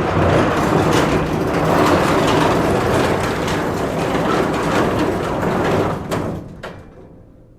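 Slatted metal shutter on a lorry rattling steadily as it rolls for about six seconds, then two sharp knocks as it comes to a stop, and the sound fades.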